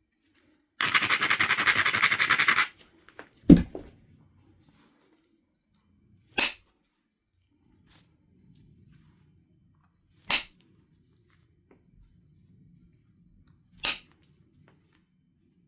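Knife River flint biface being worked by hand: a two-second run of rapid scraping strokes, then a heavy knock, then four sharp single clicks a few seconds apart.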